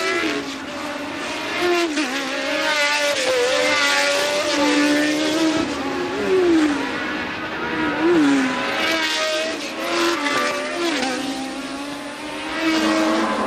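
1982 Formula One race cars at racing speed, several engines heard at once, their notes rising and falling with gear changes and cars going by.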